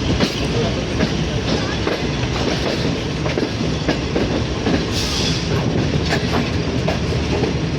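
Passenger train running on the rails: a steady rumble with irregular wheel clicks over rail joints, and a short hiss about five seconds in.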